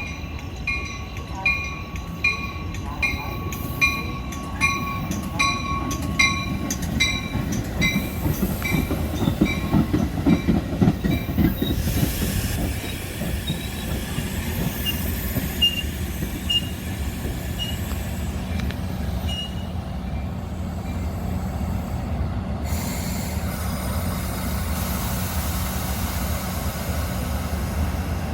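Metra commuter train arriving at a station. A bell rings at a steady pace for the first several seconds and fades, then the train's heavy rumble swells around ten seconds in. Short high squeals of wheels or brakes follow, and the train settles into a steady low hum as it stands.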